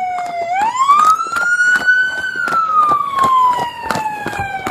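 Emergency vehicle siren in wail mode: one slow rise in pitch over about two seconds, then a long fall, with a fast run of clicks behind it.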